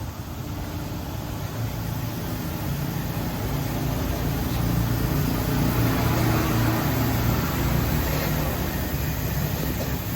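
A motor or engine running steadily, growing louder through the middle and easing a little near the end.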